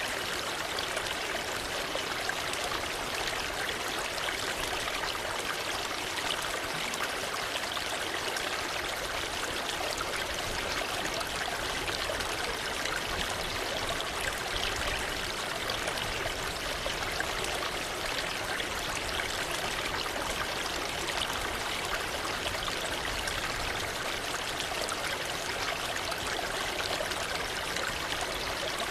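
Waterfall: falling water making a steady, even rush without a break.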